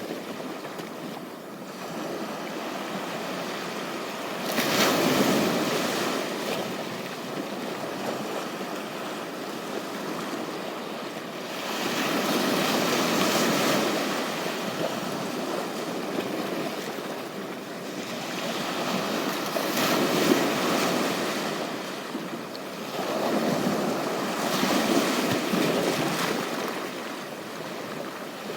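Sea waves breaking and washing on a beach shore. The surf swells and falls back in repeated surges about every six to eight seconds.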